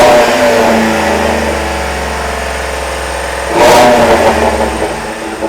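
2010 Ford F-150's 4.6-litre 16-valve SOHC V8, heard at the exhaust, being revved. The engine falls back from a rev over the first three seconds, is revved again sharply about three and a half seconds in, and settles back down.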